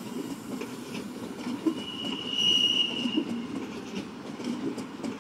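Train rolling on the rails with a steady low rumble, and one high, steady wheel squeal lasting about a second, starting about two seconds in.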